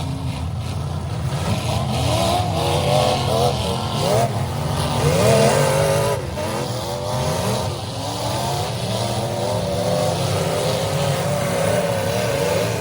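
Several demolition derby cars' engines revving hard at the same time, their pitches repeatedly climbing and dropping over a steady low rumble.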